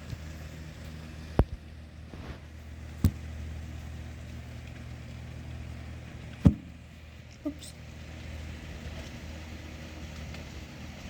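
Steady rain under a constant low hum, broken by sharp knocks about one and a half, three and six and a half seconds in, the last the loudest, and a small one just before the "oops".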